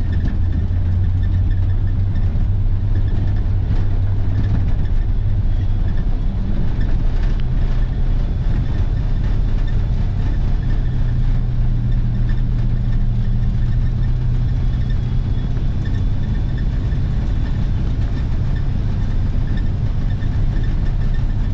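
The 454 V8 engine of a 1955 Ford box truck running steadily under way, with road noise, heard from inside the cab. The engine note steps up a little about six seconds in.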